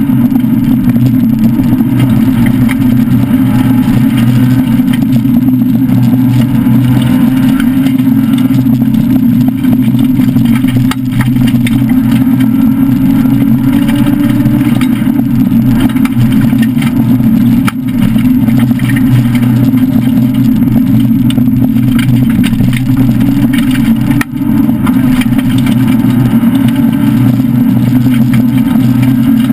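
Citroën SM Bandama rally car's Maserati V6, heard loud from inside the cabin, running hard under load at high revs on a gravel stage. The note holds fairly steady with slight rises and falls and dips briefly three times.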